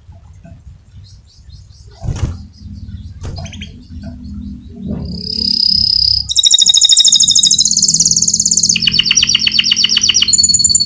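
Canary singing. A few faint chirps give way, about five seconds in, to loud rolling trills: very fast repeated notes in phrases that shift in pitch from one to the next.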